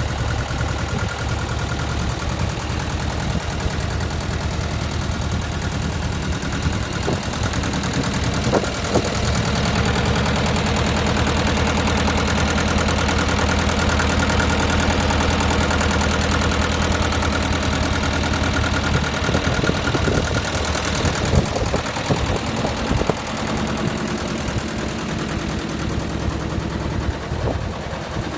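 Massey Ferguson 210's two-cylinder diesel engine running steadily, a little louder through the middle of the stretch, with a few sharp clicks about nine seconds in and again about twenty-one seconds in.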